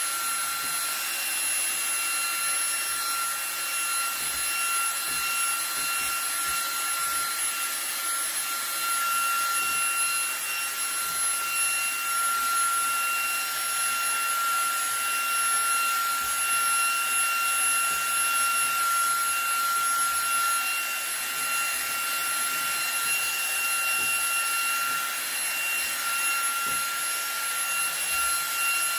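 eufy HomeVac H30 Mate cordless handheld vacuum running steadily on max power: a high, even motor whine over the hiss of rushing air.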